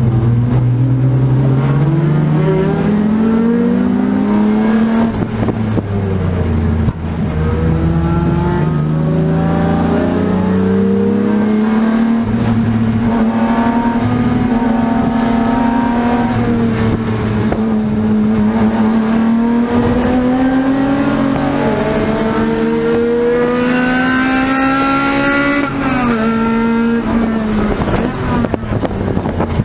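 BMW E36 M3 straight-six race engine heard from inside the stripped cabin under full throttle on track. The revs climb steadily through the first several seconds, hold high and nearly steady for a long stretch, then drop suddenly near the end before holding again.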